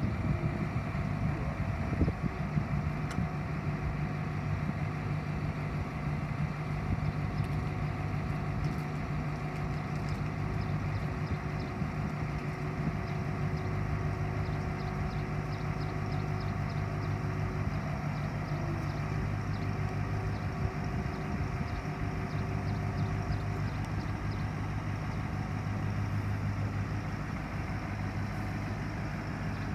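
1990 Ford C8000 bucket truck's engine running steadily at an even idle-like speed.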